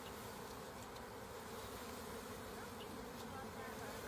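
A large swarm of honey bees buzzing in a steady drone, released from a package into a new hive.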